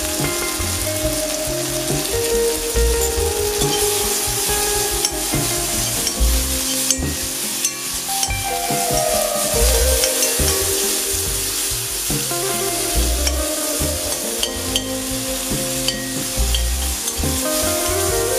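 Tomato pieces sizzling in hot oil in a kadai while being stirred with a spatula, with scattered scrapes and taps of the spatula against the pan.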